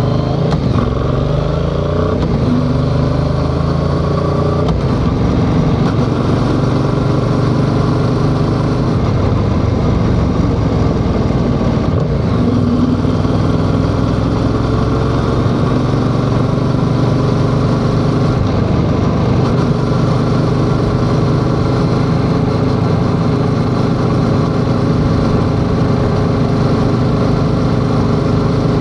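Yamaha XSR700's 689 cc parallel-twin engine running under way on a ride, its pitch rising and falling in the first couple of seconds and then holding fairly steady.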